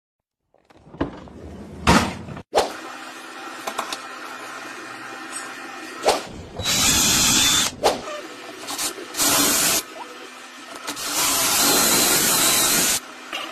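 Furniture-workshop tool sounds: sharp knocks and three bursts of loud hissing from a power tool, the longest about two seconds, over a steady low hum.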